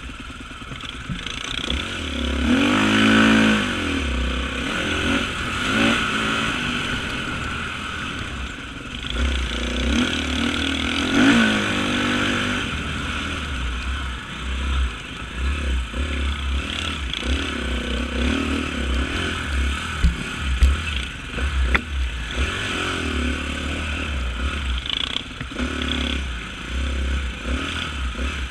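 Off-road motorcycle engines revving up and down over rough cross-country terrain, with rattling and clatter. The pitch swings hardest about three seconds in and again about eleven seconds in.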